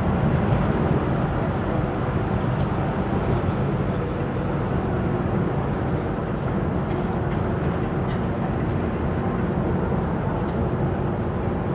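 Steady running noise of a Mercedes-Benz double-decker coach under way, heard from inside the cabin. It is an even engine and road rumble with faint light ticks.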